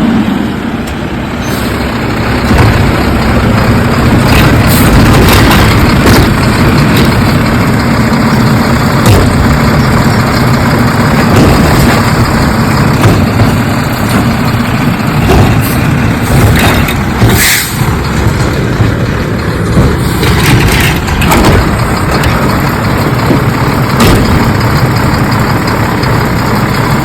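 Garbage truck engine running steadily, with occasional sharp clanks and knocks.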